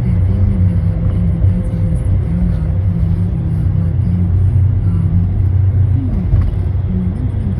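Steady low rumble of a car on the road.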